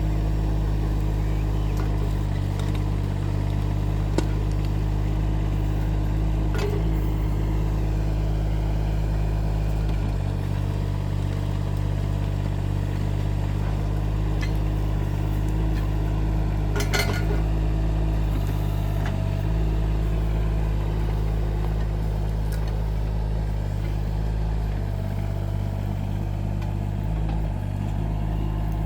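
Rippa R15 mini excavator's engine running steadily under work, with a few sharp knocks and clanks, the loudest about two-thirds of the way through.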